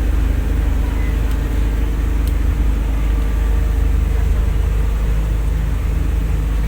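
A boat's engine running steadily, a low, even drone.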